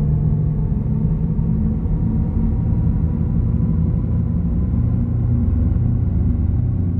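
A deep, steady low rumble with several low humming tones in it, easing off near the end.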